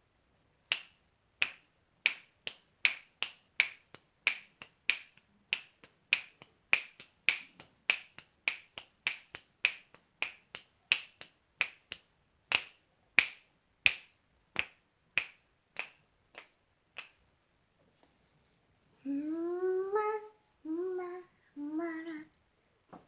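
Finger snaps in a loose steady rhythm, about one and a half a second, that stop about three quarters of the way through. Near the end a voice sounds three short notes, the first sliding upward.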